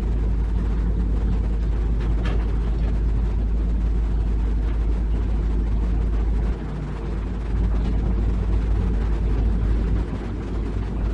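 Heavy diesel engine running with a steady low rumble; the level dips briefly twice.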